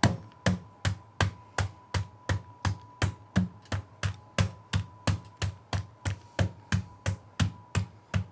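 Raw chicken breasts in a large plastic bag being pounded thin with a meat pounder, in steady strikes about three a second.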